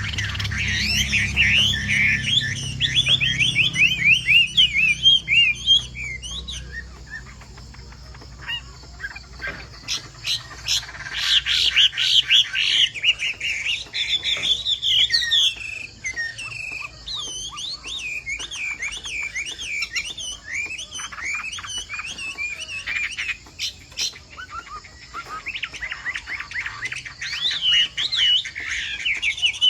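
Chinese hwamei (melodious laughingthrush) singing a rapid, varied run of warbled whistles, in long bursts broken by a few short lulls.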